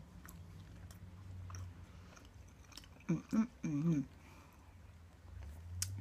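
A person chewing a mouthful of hash brown with the mouth closed, with a few short muffled vocal sounds about three seconds in. A faint low hum runs underneath.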